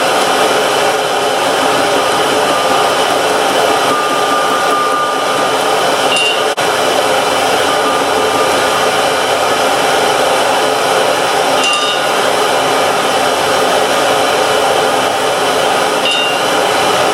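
Electric air blower running steadily, forcing air into a charcoal forge fire to bring it up to heat. A few faint metallic clinks ring over it.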